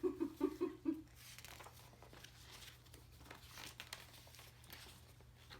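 A brief burst of a child's voice in the first second, then soft paper rustling and crinkling with small clicks as the pages of a picture book are handled and turned.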